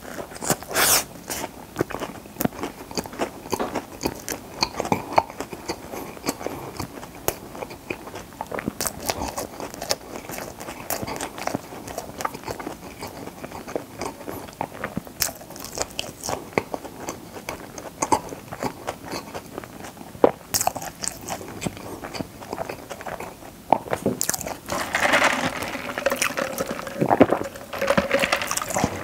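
Close-miked chewing of a crispy fried chicken burger: crunching and wet mouth clicks. Near the end come louder sipping sounds as he drinks from a paper cup.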